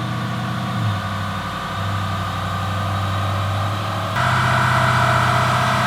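Twin-turbo Chevrolet Silverado's 6.2 V8 running steadily at a low, even speed. Its note drops slightly about a second in, then turns louder with a stronger higher whine about four seconds in.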